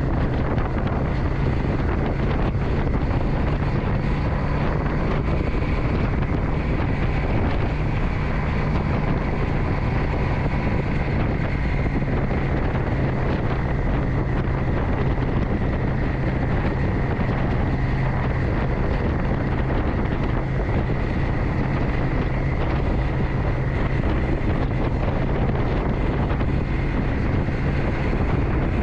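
Motorcycle engine running steadily at an even speed while riding, with wind buffeting the microphone.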